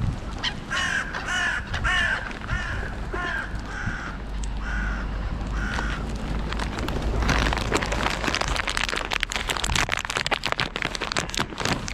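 Carrion crows cawing, a run of about nine caws over the first six seconds. After that a rough, crackling noise full of small clicks takes over.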